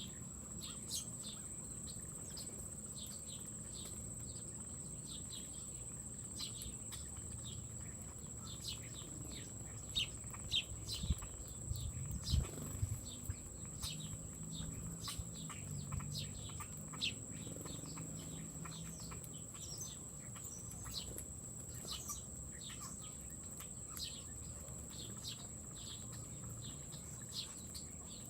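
Small birds at a feeder chirping many short high calls throughout, over a steady high-pitched whine. A few low thumps come about midway.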